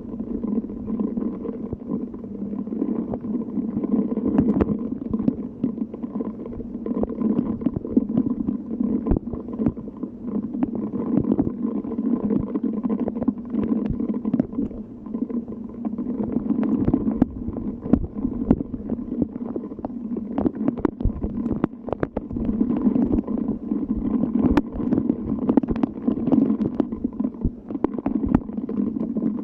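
Steady rain with wind: a continuous low rushing noise, with many sharp drop ticks scattered throughout.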